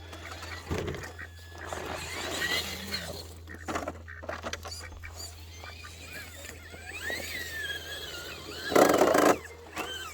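RC rock-crawler truck's electric motor and drivetrain whining as it crawls, the pitch rising and falling with the throttle. A loud, short rushing burst comes about nine seconds in.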